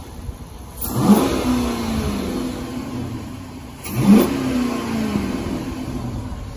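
2006 Dodge Charger engine revved twice from idle, each blip rising sharply and falling back to idle, heard from inside the car. It carries the whistle that a newly fitted throttle body spacer is said to add, likened to a supercharger.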